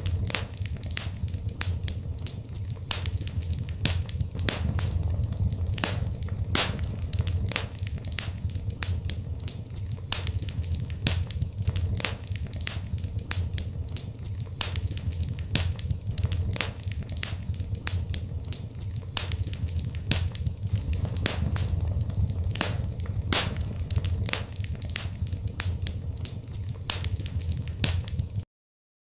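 Wood fire in a fireplace crackling, with frequent sharp pops at uneven intervals over a steady low rumble of flame. It stops abruptly just before the end.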